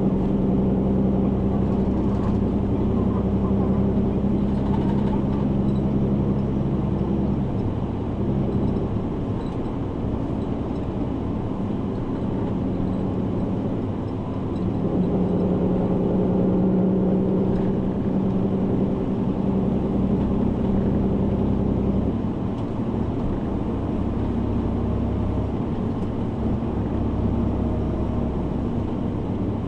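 Kumamoto Bus city bus running along the road, heard from inside the passenger cabin: a steady engine and road drone whose engine tone eases off about eight seconds in and comes back stronger around fifteen seconds as the bus changes speed.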